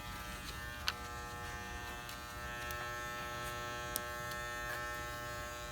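Electric hair clippers running with a steady buzz while trimming a poodle's coat, with a couple of faint clicks about a second in and near four seconds.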